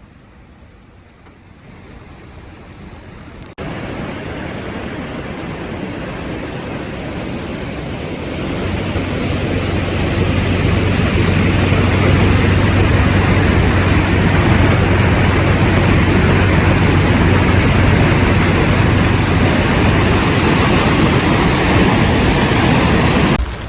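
Rushing floodwater of the rain-swollen Takahashi River: a steady noisy roar that jumps louder suddenly about three and a half seconds in and swells further, with a steady low hum underneath.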